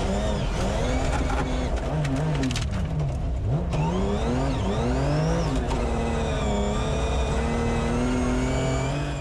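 BMW M3 rally car's straight-six engine heard from inside the cabin, revving up and dropping back again and again through gear changes, with a few sharp knocks about two seconds in.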